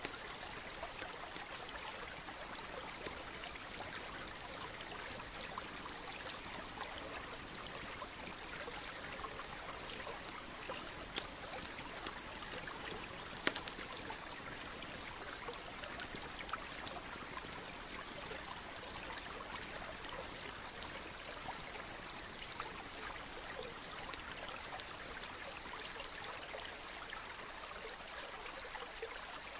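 Campfire crackling, with irregular sharp pops (the loudest about halfway through), over the steady rush of a stream.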